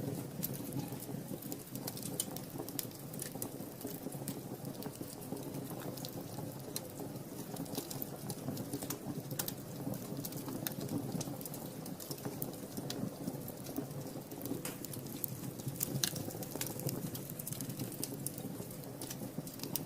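Wood fire in a fireplace crackling, with a steady low rumble of flames under many small sharp pops. One louder pop comes about three quarters of the way through.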